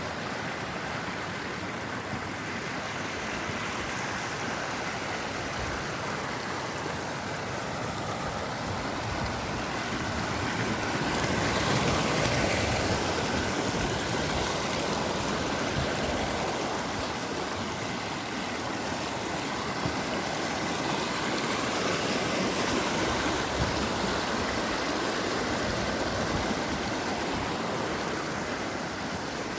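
Rushing water: a steady noise that swells a little about eleven seconds in, then settles.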